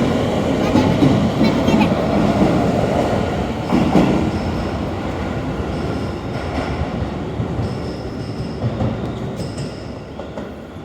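Keio Dobutsuen Line electric train pulling out of the station: a steady running rumble with a few knocks from the wheels. It grows steadily fainter as the train draws away.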